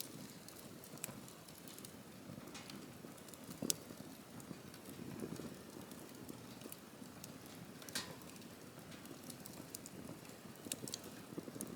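Campfire burning: a soft low rustle of flames with sharp crackles and pops scattered irregularly throughout, two of them louder, about a third of the way in and just past halfway.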